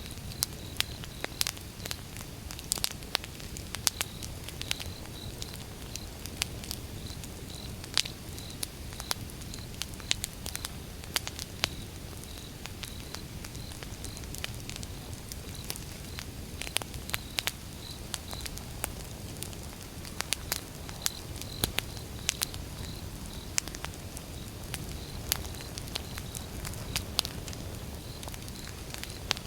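Wood fire burning, with a steady low rumble and hiss and frequent sharp, irregular crackles and pops from the burning logs. A faint high chirp repeats about twice a second.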